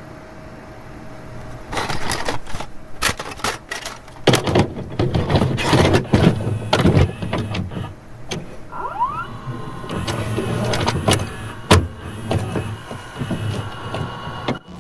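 VHS tape static: a steady hiss at first, then from about two seconds in, irregular crackling and noisy distorted bursts, with a few short rising chirps around nine seconds in.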